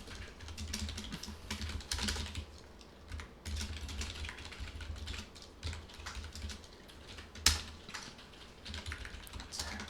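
Computer keyboard typing: irregular runs of key clicks as code is entered, with one louder keystroke about three-quarters of the way through.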